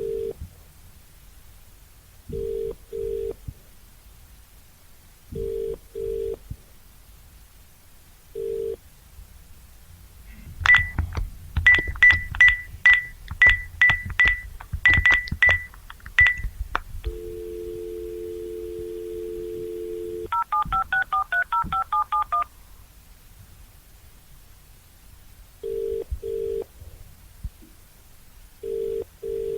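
Telephone call sounds: a ringback tone of double beeps every few seconds, then a clattering run of clicks with short high beeps, a steady dial tone, and a quick string of touch-tone (DTMF) digits dialed. The double-beep ringback returns near the end.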